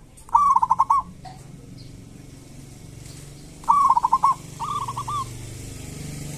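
Zebra dove (local perkutut) giving its rapid 'kerot' call: quick runs of short repeated notes, about ten a second, once near the start and twice more about four seconds in. A low steady hum runs underneath.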